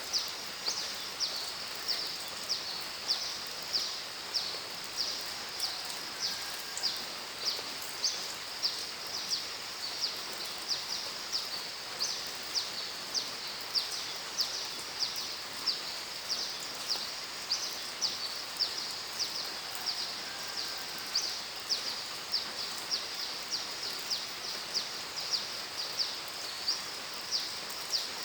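Steady rain hiss with a small animal's high chirp repeating at an even pace, nearly twice a second.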